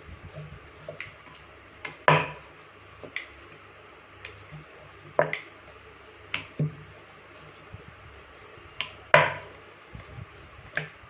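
A wooden rolling pin and rolling board knocking and clattering irregularly as a momo wrapper is rolled out, about nine sharp knocks, the loudest about two seconds in and about nine seconds in.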